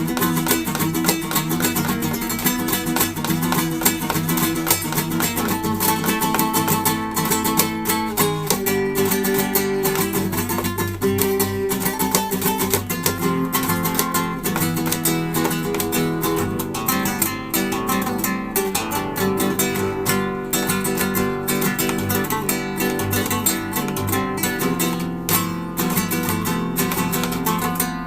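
Acoustic guitar playing in a flamenco style, with quick plucked notes and rhythmic strummed chords.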